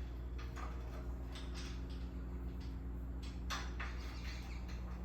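A few light clicks and taps of metal hardware being handled while a miter saw is fitted onto its stand's mounting bracket: a part slid forward and washers and bolts set in place by hand. A steady low hum sits underneath.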